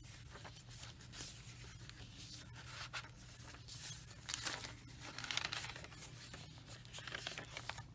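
Paper rustling and crinkling as the pages of a handmade junk journal are turned and handled, in uneven bursts with small clicks, loudest about four to five seconds in.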